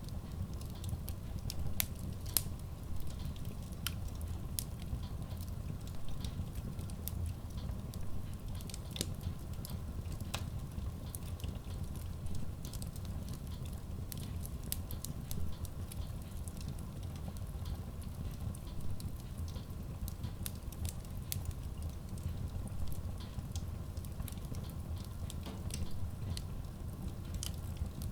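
Wood logs burning in a Kratki Koza K6 stove-fireplace: a steady low rumble of the flames with frequent, irregular sharp crackles and pops.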